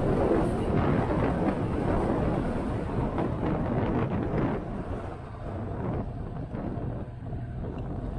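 Motorcycle on the move: wind rushing over the microphone, easing off about halfway through as the bike slows, leaving the engine's steady low hum.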